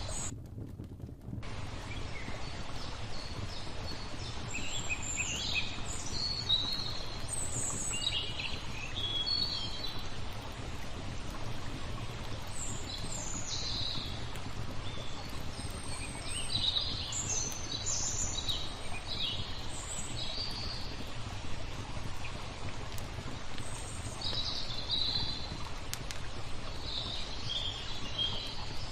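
Small songbirds chirping in short, repeated calls over a steady wash of flowing water, with scattered faint crackles from a wood fire. The high sounds drop out for about a second at the very start.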